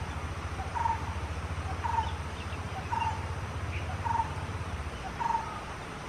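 A bird repeating a single short, clear note about once a second, steady in pitch and pace, six times, over a low rumble that fades near the end.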